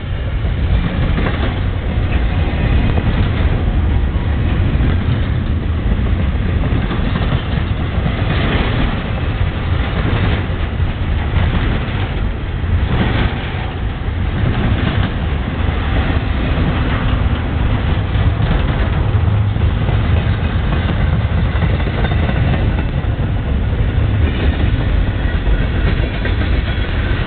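Norfolk Southern freight train's cars rolling past: a steady heavy rumble with wheel clatter over the rails.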